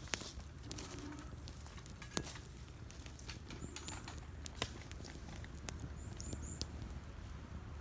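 A wood campfire crackling, with irregular sharp pops and snaps over a steady low rumble.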